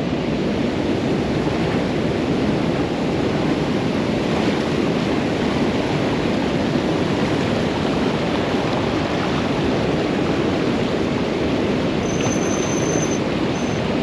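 Fast-flowing river water rushing steadily around a wading angler, a constant even noise.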